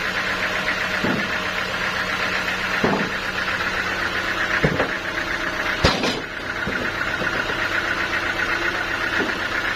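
An engine running steadily at idle with a fast, even pulsing, with a few sharp knocks over it, the loudest about six seconds in.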